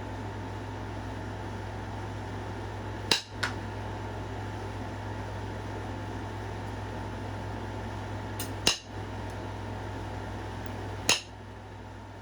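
Flintknapping on a stone point: sharp clicks of flakes being struck or pressed off the edge, three main strikes with a few smaller ticks near them, over a steady low hum.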